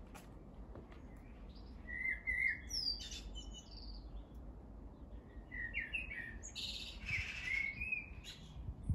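Garden birds calling outdoors: a run of short chirps and gliding whistled notes about two seconds in, then more chirps and a harsher call around seven seconds in, over a faint low background rumble.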